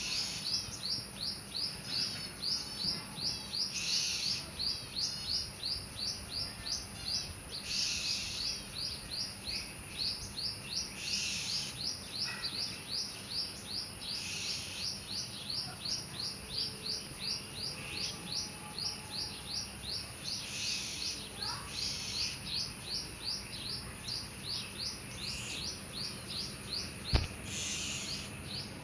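A bird chirping over and over, about three short calls a second, with a steady high-pitched hum behind it. A single sharp knock sounds near the end.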